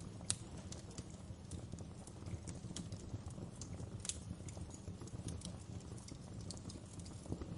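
Wood fire crackling in a fireplace: irregular sharp pops and snaps over a steady low rumble of the flames, with the loudest pops about a third of a second in and about four seconds in.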